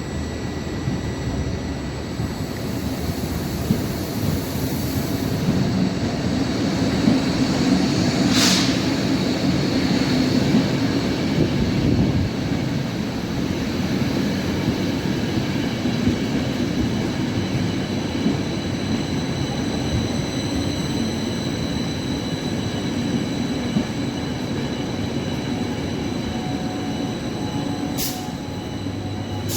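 A train moving slowly along the station track: a steady rumble with thin, high, drawn-out wheel squeal. There is a short burst of hiss about eight seconds in and another near the end.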